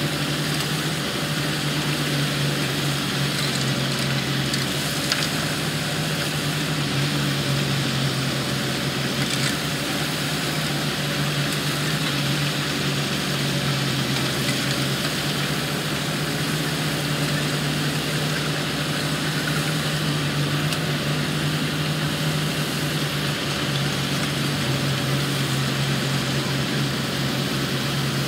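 Heavy construction machine's engine running steadily, a constant low hum with an even mechanical noise over it.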